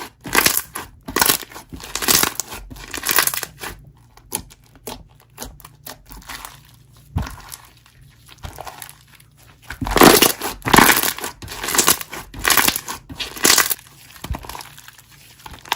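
Slime being squeezed and worked by hand, giving irregular sticky clicks and pops. These are busier at the start and again in the last third, with a quieter stretch in the middle.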